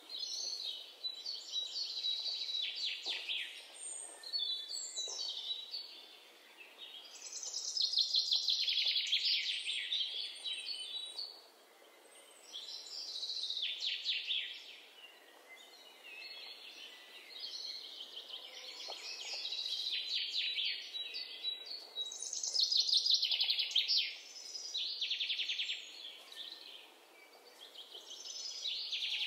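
Birdsong: repeated high, rapidly trilled phrases, each lasting a couple of seconds, with short pauses between them, over a faint background hiss.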